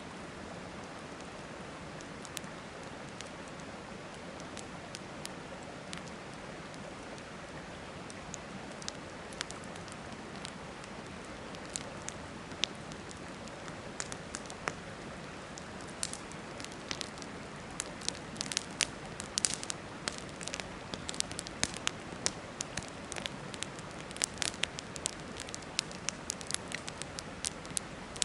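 Wood fire crackling and popping over the steady rush of a river; the pops are sparse at first and grow frequent and louder in the second half.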